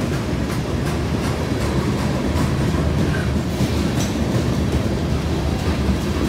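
Freight train of covered hopper cars rolling past: a steady rumble of steel wheels on the rails, with occasional clicks.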